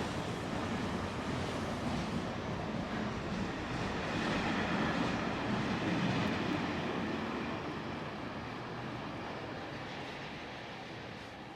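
A vehicle passing by, its noise swelling to a peak about halfway through and then fading away.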